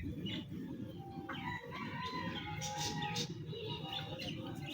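A long drawn-out bird call lasting about two seconds, heard over a steady low rumble.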